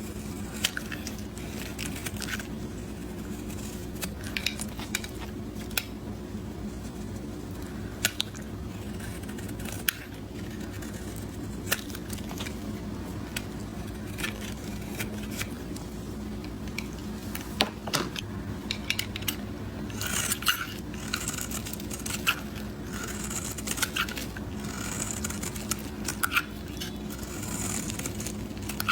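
A knife cutting through a bar of soap into cubes: crisp snaps and scraping crunches as the blade passes through and pieces break away. The snaps are scattered at first and become a busier crackling crunch in the last third. A steady low hum runs underneath.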